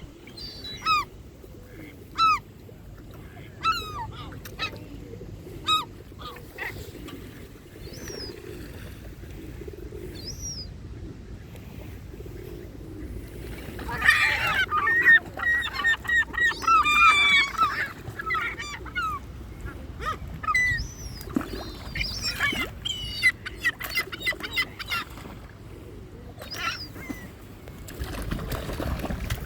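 Waterbirds calling: single descending calls every second or two, then a loud burst of many overlapping honking and quacking calls about halfway through, tailing off into scattered calls.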